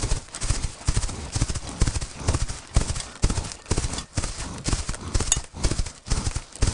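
Hooves clip-clopping at a walk on hard ground: sharp knocks, several a second, in an uneven rhythm.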